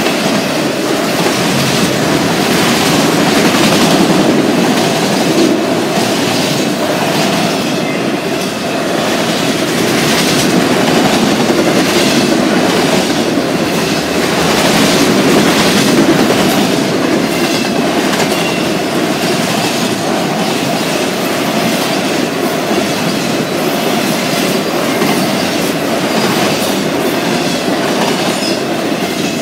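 Freight train of autorack cars rolling past close by: the steady rumble and clickety-clack of steel wheels on the rails, swelling and easing a little as the cars go by.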